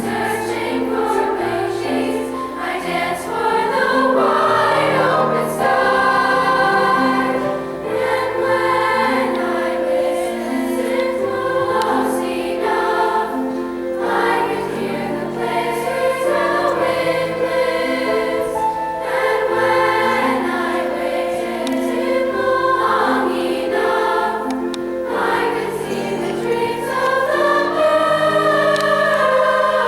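Junior high girls' choir singing in several parts, over low held accompaniment notes that change every second or two.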